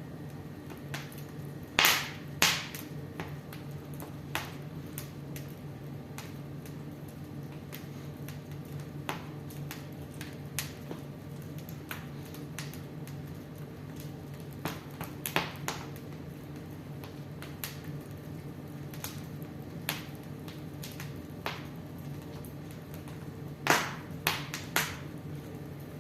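Wood fire crackling in a fireplace, with irregular sharp pops, the loudest a pair about two seconds in and a cluster near the end, over a steady low hum.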